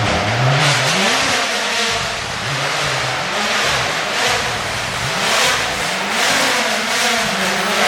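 Rally car engine revving hard, its pitch climbing and dropping again about once a second through throttle changes, over a loud hiss.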